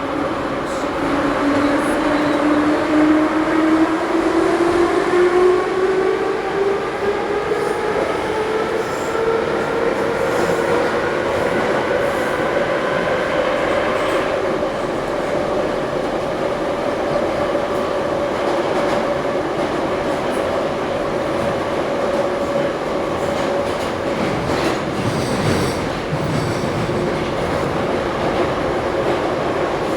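Еж3 metro train running between stations: the motor whine climbs in pitch over the first dozen seconds as the train accelerates, then holds steady at cruising speed over continuous wheel-and-rail rumble.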